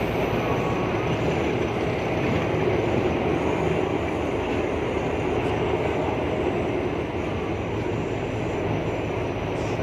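Passenger train running, a steady rumble and rattle of wheels on rails.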